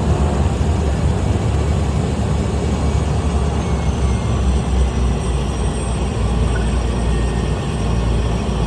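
A small plane's engine and propeller running steadily while it taxis, heard as a constant low drone.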